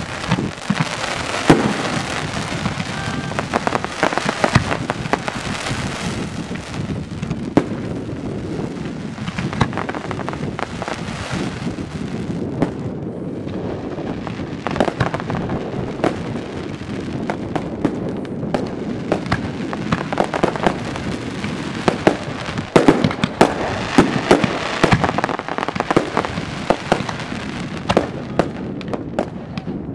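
Professional firework display in full flow: aerial shells bursting in quick succession, many sharp bangs over a continuous noisy wash from the barrage, with a cluster of the loudest bangs about three quarters of the way through.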